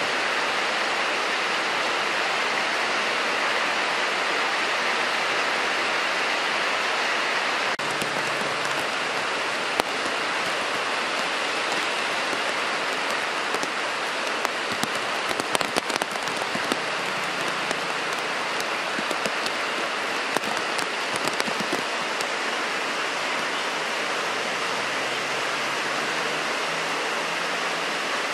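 Heavy rain pouring steadily, with a scatter of sharp taps near the middle.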